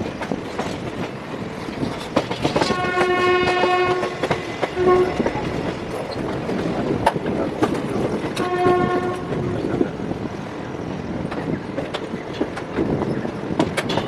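Passenger train running, its wheels clattering over the rail joints, while a locomotive horn sounds a long blast about three seconds in, a short toot a second later, and another long blast past the middle.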